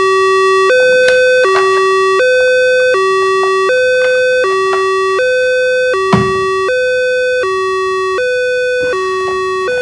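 Toy emergency vehicle's electronic siren sounding a two-tone hi-lo wail, a buzzy higher and lower note swapping back and forth about every three quarters of a second. A single sharp knock comes about six seconds in.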